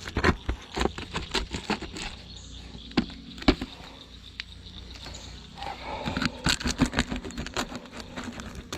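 Irregular clicks, knocks and scrapes of tools working a wooden beehive frame as wonky comb is dealt with, over a low steady hum of bees.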